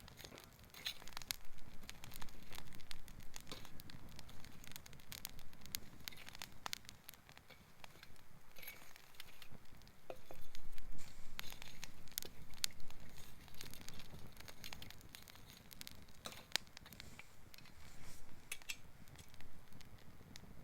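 Wood campfire of gathered fallen branches crackling, with irregular sharp pops and snaps over a low steady rumble; the crackling is busiest about halfway through.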